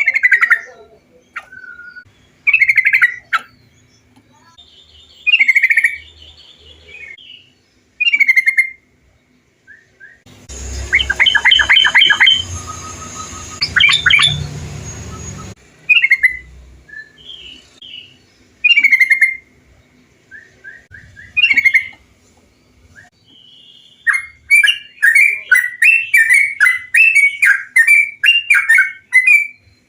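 Trucukan (yellow-vented bulbul) song recording: short bubbly chirping phrases repeat every two to three seconds. A rapid run of chirps over a noisier background comes about ten seconds in, and a fast string of chirps near the end.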